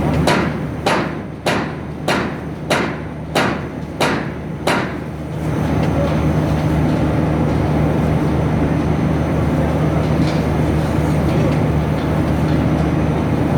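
Pallet stretch-wrapping machine running with a steady hum. For the first five seconds a sharp knock repeats evenly, about one and a half a second, eight in all, then only the hum goes on.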